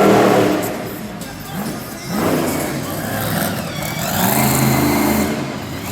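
Monster truck engine revving hard in repeated surges, the pitch climbing and falling with each blip of the throttle during a freestyle run. The loudest surge is right at the start, with a long one near the end.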